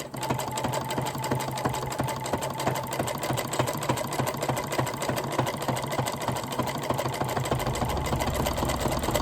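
Janome Memory Craft 9000 sewing machine running steadily, stitching a zigzag edge finish through three layers of broadcloth, its needle going up and down in a fast, even rhythm with motor hum. The motor's tone drops lower near the end.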